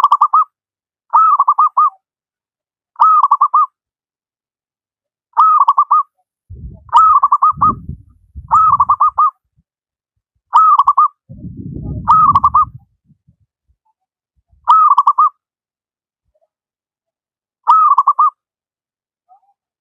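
Zebra dove (perkutut) cooing: short rolling trilled coos, about ten of them, repeated every one to three seconds. A low rumble sounds twice in the middle.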